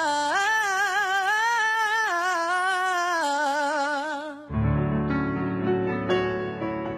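A singer holds the closing word 'love' for about four and a half seconds with a wavering vibrato. The note then cuts off and piano chords and single notes carry on.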